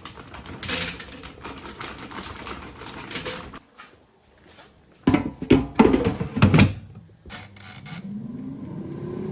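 Frozen fries rattling as they are tipped into an air fryer basket, then a few loud clunks of handling about five to seven seconds in. Near the end the air fryer's fan starts up, its hum rising in pitch and settling into a steady tone.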